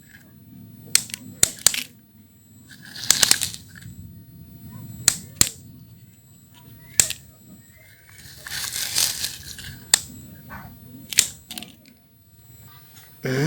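Toy excavator and toy trucks working in sand and gravel: sharp clicks and knocks of pebbles against plastic, with two longer rustling pours of sand a few seconds apart.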